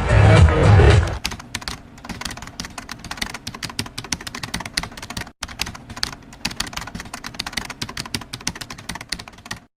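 Loud music with a heavy bass that cuts off abruptly about a second in, followed by a much quieter, fast, irregular clicking that goes on for several seconds.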